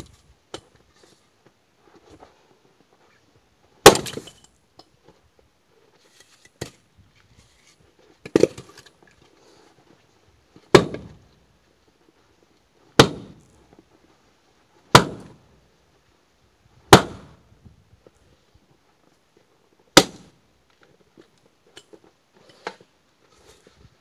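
Axe splitting firewood: seven sharp cracks of the blade striking logs, about two seconds apart, with a few lighter knocks of wood between them.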